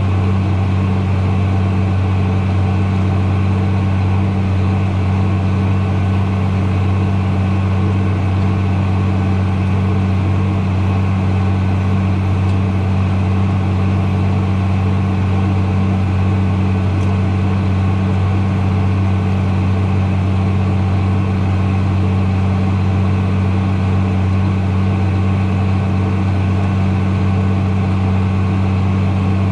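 Heavy engine running steadily at one speed, a constant low hum that never changes in pitch or loudness.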